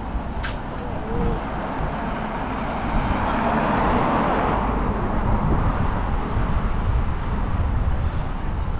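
City street traffic: a vehicle passes close by, its noise swelling and fading about three to five seconds in, over a steady low rumble.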